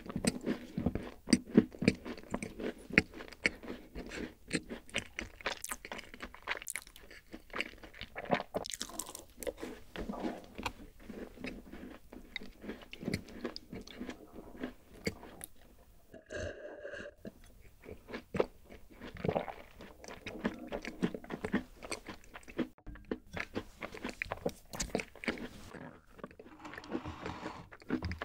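Close-miked chewing of a crumbly rice-oat cookie: many sharp crunches and crackles, loudest in the first few seconds, with swallowing. About halfway through there is a drink from a glass of grain milk.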